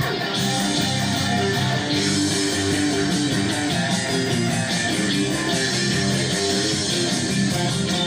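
Rock music led by electric guitar, with bass underneath, playing steadily throughout.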